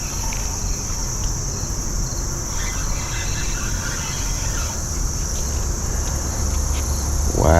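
Steady high-pitched chorus of insects such as crickets, with a low steady rumble underneath.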